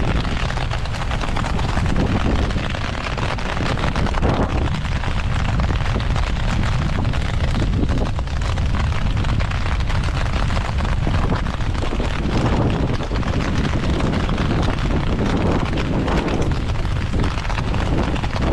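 Rainstorm: a steady, loud rush of wind and rain, with heavy wind rumble buffeting the microphone.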